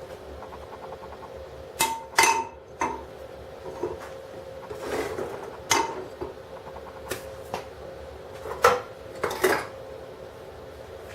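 Irregular metallic clinks and knocks, about seven sharp ones spread over several seconds with a short ring after each, over a faint steady hum.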